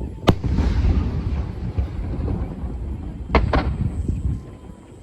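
Aerial fireworks shells bursting: a sharp bang just after the start trailing into a fading crackle, then two bangs in quick succession a little past three seconds, over a continuous low rumble.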